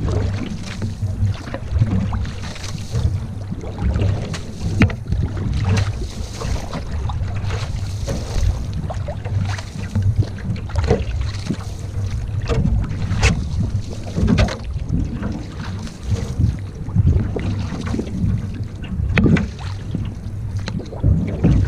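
Canoe being paddled: water swishing with each paddle stroke, about one stroke every second and a half, with a few sharp knocks along the way. Wind rumbles on the microphone throughout.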